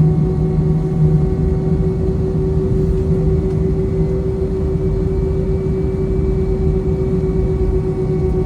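Steady cabin drone inside an Airbus A321 on the ground: a low rumble under a constant hum, with a deeper hum that fades out about a second in.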